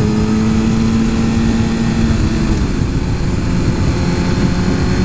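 Suzuki GSX-R 1000 superbike's inline-four engine running at a steady part-throttle cruise, over a heavy rush of wind noise. The engine note eases slightly about halfway through, then picks back up.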